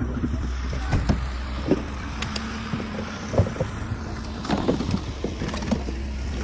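A motor running steadily with a low hum, with irregular knocks and clunks about once a second.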